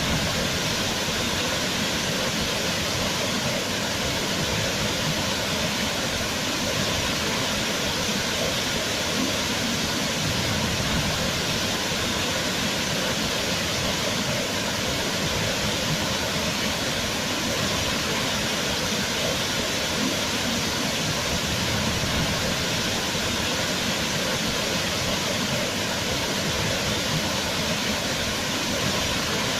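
Waterfall: falling water making a steady, even rush with no change in level.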